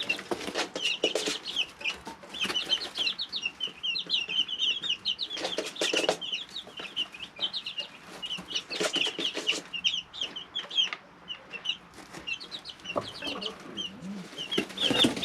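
A brooder full of three-week-old chicks peeping, with many short high chirps overlapping without pause. Bursts of rustling and scratching come through several times.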